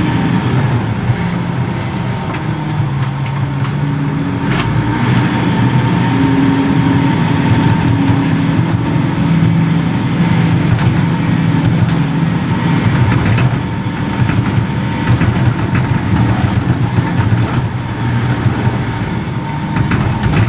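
Reach stacker's diesel engine running under load, its pitch stepping up and down as the machine works, with a faint steady whine above it and a few light clicks.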